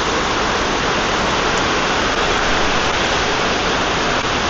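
Heavy rain falling in a steady downpour, a loud, even hiss.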